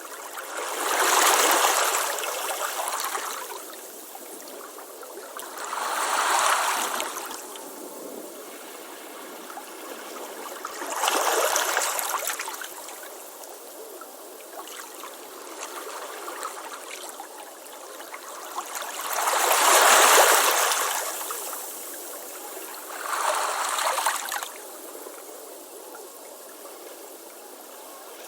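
Ocean waves breaking and washing up a beach: five surges that swell and fall back, about every five seconds at first, then a longer lull before the loudest wave about two-thirds of the way through and a smaller one soon after, with a steady hiss of water between them.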